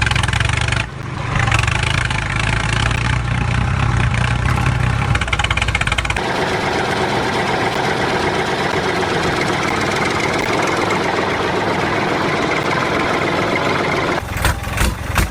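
Tractor engine starting and running with a deep low rumble; about six seconds in the rumble drops away and a steadier, higher running sound takes over.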